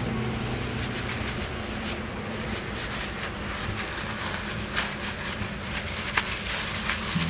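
Food sizzling and crackling in hot oil, the pops growing more frequent about halfway through.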